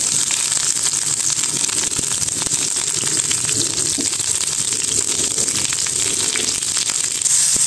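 Onion sizzling steadily in hot cooking oil in a pan, with fine crackling, getting a little louder near the end.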